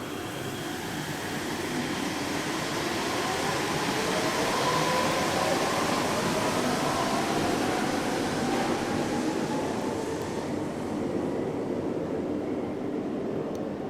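Yurikamome rubber-tyred automated train running, with a motor whine sliding in pitch over the rolling noise. The sound swells to its loudest about five seconds in, and the hiss eases about ten seconds in.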